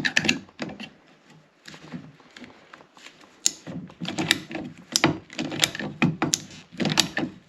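Hand pipe cutter cutting through a water supply line: a run of sharp clicks and snaps, about three a second, starting about three and a half seconds in.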